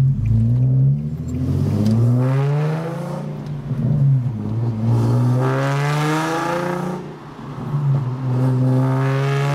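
Infiniti G37's 3.7-litre VQ37VHR V6 revved several times while parked, its pitch climbing and falling back with each blip of the throttle.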